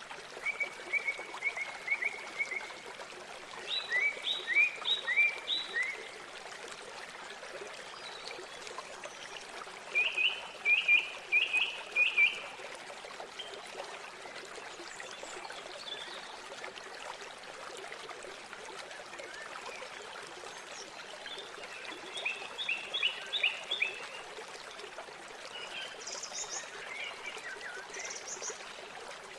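River water running steadily, with four bursts of short, rapidly repeated calls from animals by the river, the loudest about ten seconds in, and a few higher notes near the end.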